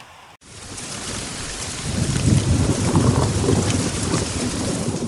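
Heavy rain shower, an even rushing hiss that starts abruptly, with a deep rumble building from about two seconds in.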